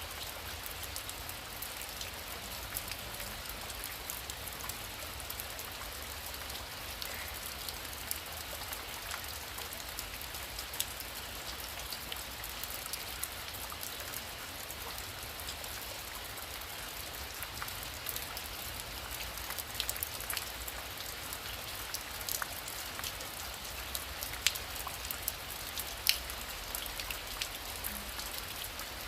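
Heavy rain falling steadily: an even hiss dotted with many sharp ticks of single drops striking, two of them louder near the end.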